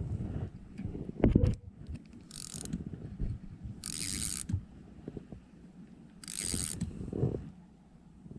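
Fishing reel running in three short whirring bursts of about half a second each. A dull thump about a second in.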